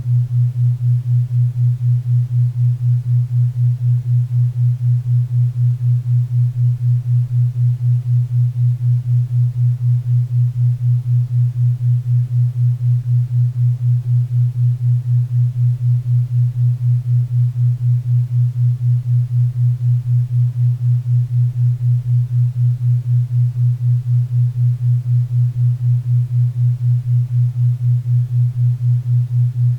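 Synthesized 4 Hz theta-wave entrainment tone: a steady low hum pulsing evenly about four times a second, over faint pink and brown noise.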